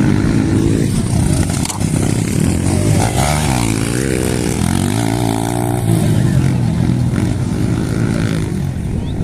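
Motorcycle engines running loudly. The pitch rises and falls repeatedly in the middle, as the throttle is blipped.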